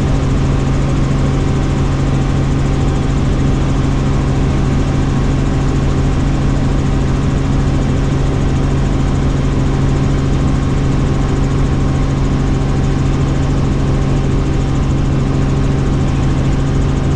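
Helicopter in flight: a steady, loud engine and rotor drone with several constant tones, unchanging throughout.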